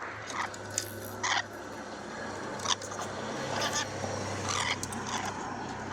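Pet parrot giving short, sharp chirping calls, about one a second, over a low steady hum that stops near the end.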